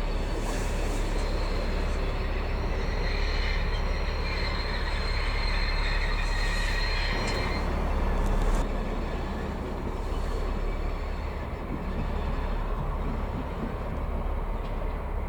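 Train moving on the rails with a steady low rumble, and high wheel squeal from about three to seven seconds in. The rumble eases off about eight and a half seconds in.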